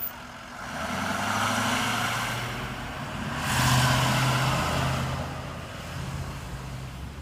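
Heavy fire truck's diesel engine running as the truck pulls away and passes, swelling in loudness twice, the second time louder, then fading.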